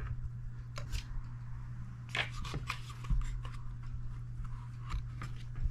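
Scattered, irregular clicks and light rustling of things being handled, over a steady low hum.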